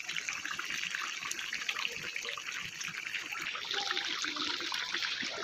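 Chicken and potato curry sizzling in oil in an aluminium kadai. The masala has been fried until the oil separates. A dense crackle that grows louder about three and a half seconds in.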